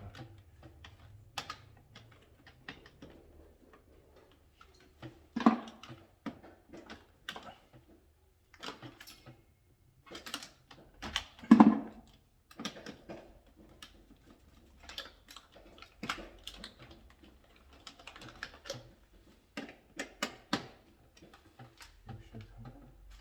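Irregular clicks and knocks of hand tools and small parts being handled during electrical panel wiring work. Two knocks, about five and a half and eleven and a half seconds in, are louder than the rest.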